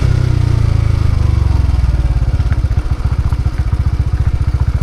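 Motorcycle engine easing off, its pitch falling, then settling into a steady idle about a second and a half in.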